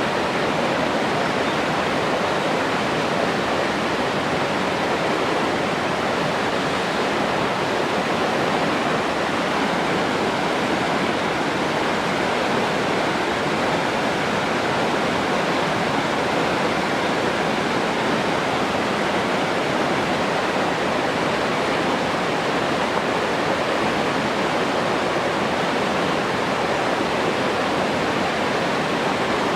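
Steady, unbroken rushing water.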